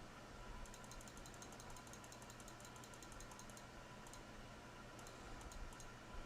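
Faint rapid typing on a computer keyboard for about three seconds, then a few scattered key clicks.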